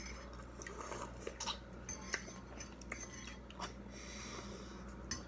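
Eating at a table: a few scattered light clicks and taps of cutlery against plates, with chewing.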